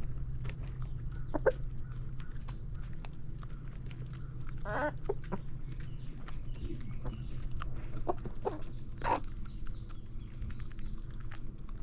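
Chickens clucking in a few short separate calls over a steady low hum.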